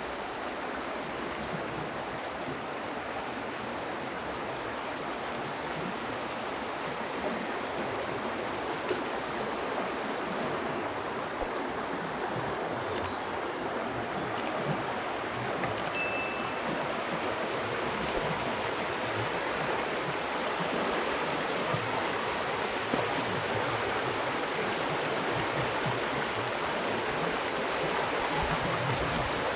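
The Hășdate mountain stream rushing over rocks in a limestone gorge, a steady rush of water that grows a little louder near the end.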